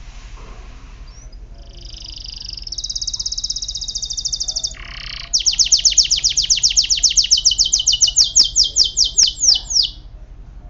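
Canary song: a buzzy note about a second in, then a fast trill, then a louder run of rapid, high, downward-sweeping notes that stops about ten seconds in.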